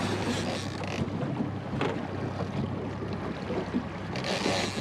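Small boat's outboard motor running steadily at low speed, with wind gusting on the microphone and water noise around the hull. The gusts come at the start and again near the end.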